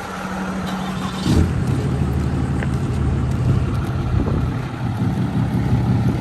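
A truck engine running steadily, its sound growing stronger about a second and a half in.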